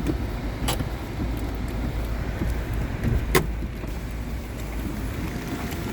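Car running with a steady low rumble, with two sharp clicks about a second and three seconds in.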